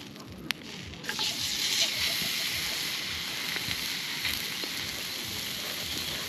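Ribeye steak sizzling on a hot, oiled camp grill over an open fire; the sizzle starts abruptly about a second in and then runs steadily. A single sharp click comes just before it.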